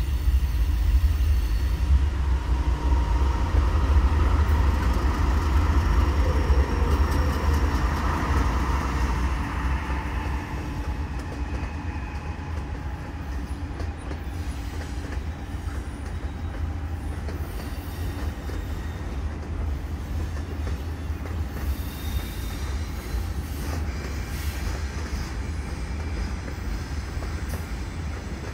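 A train rolling past with a steady low rumble that is loudest over the first ten seconds or so, then settles a little quieter. A thin high wheel squeal rides over the rumble during the louder first stretch.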